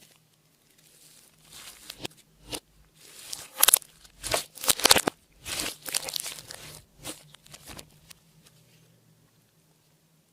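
Slime being squished and stretched by hand, a run of wet crackling and tearing sounds, loudest near the middle and dying away after about eight seconds.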